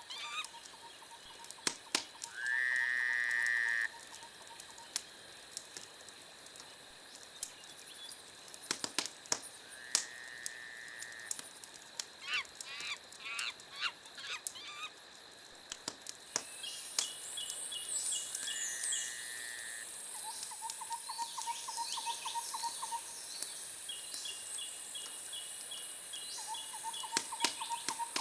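Wood fire crackling in sharp irregular pops, with outdoor bird calls laid over it. Three drawn-out calls come a few seconds apart, the first and loudest about two seconds in, and rapid pulsing trills repeat in the second half.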